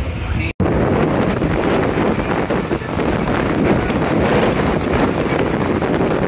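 Passenger train running at speed, heard at an open barred coach window: a steady rumble and clatter of the wheels on the track, with wind buffeting the microphone. It starts suddenly about half a second in.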